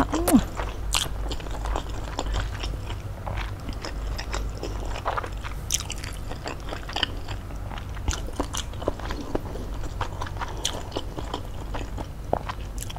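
Close-miked chewing of a mouthful of fried noodles: wet mouth clicks and smacks at an uneven pace, over a low steady hum.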